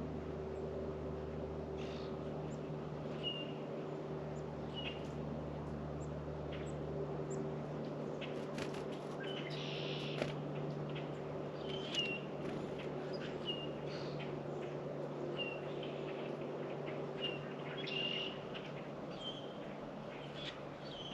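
Small songbirds at a bird feeder giving short, high chirps every second or two, with a brief flurry of chirps about halfway through, over a steady low hum.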